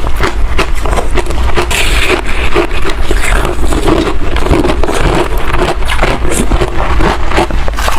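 Freezer frost being crunched and chewed right at the microphone: a dense, unbroken run of loud crackling crunches.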